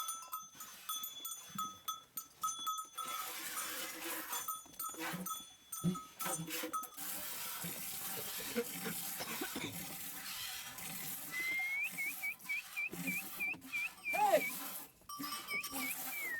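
Sheep bleating now and then among the flock.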